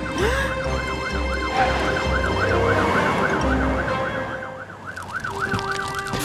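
Cartoon fire truck's siren wailing quickly up and down, over low engine brumming that fades out about four seconds in, with background music.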